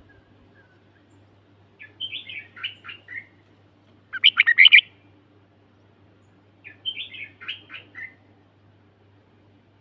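A songbird singing three short phrases a couple of seconds apart, the middle one loudest and shortest.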